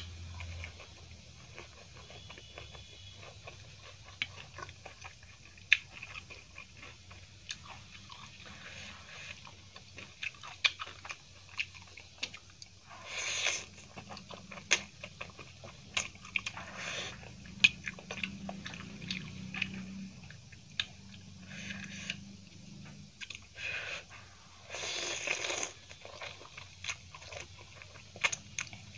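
Close-up eating sounds: crunching and chewing of a fried cauliflower pakoda with many sharp mouth clicks, and a few slurps of Maggi masala noodles sucked off a fork, the longest about halfway through and again near the end.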